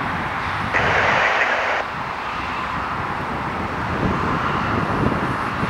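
Airbus A380's jet engines running loud with a steady noise, with a short burst of hiss about a second in.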